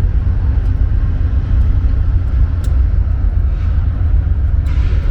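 Mercedes-AMG GT S's twin-turbo V8, fitted with aftermarket downpipes, running with a loud, steady low rumble. A short hiss comes in near the end.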